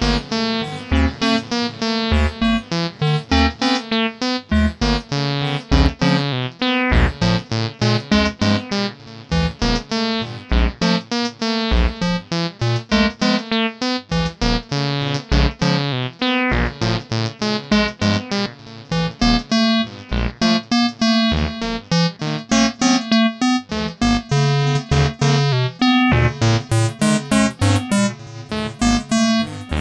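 Acid techno jam on an AcidMachine groovebox: a sequenced 303-style synth bassline of short repeating notes with falling filter sweeps, over a steady kick drum.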